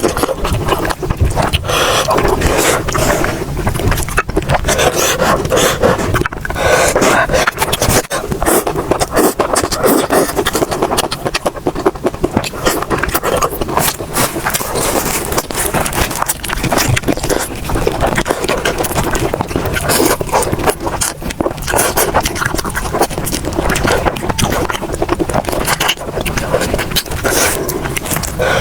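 Close-miked eating sounds: continuous chewing with dense clicks and crackles throughout.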